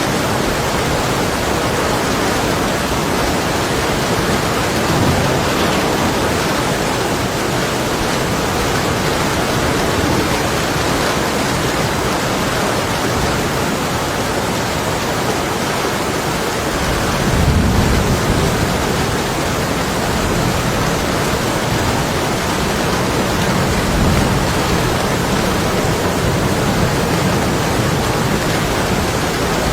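Heavy storm rain beating steadily on window glass, an even hiss. Low distant thunder rumbles in twice: a swell a little past the middle and another a few seconds later.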